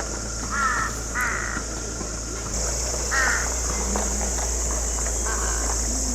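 Crow cawing: four short caws, two close together about a second in, one near the middle and a fainter one near the end, over a steady high hiss that gets louder about halfway through.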